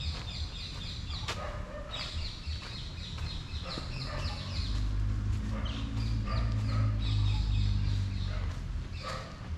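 Birds chirping in quick, repeated high calls. A low, steady rumble rises under them about halfway through and fades near the end.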